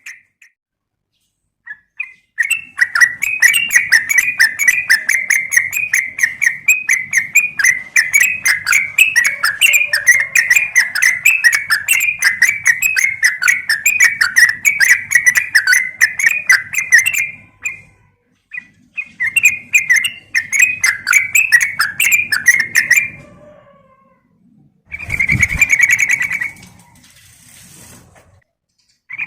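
Yellow-vented bulbul (trucukan) singing a long, fast chattering run of repeated notes, about ten a second, broken by a short pause, then a shorter burst with a low thud near the end.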